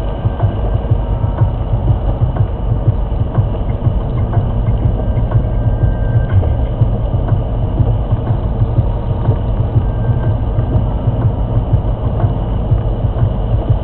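Steady low rumble of a car driving: road and engine noise picked up by a dashcam inside the cabin.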